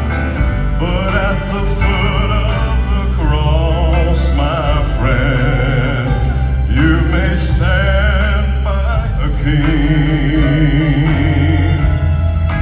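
Live southern gospel music: a male vocal quartet singing held, wavering notes over a band with a steady, heavy bass.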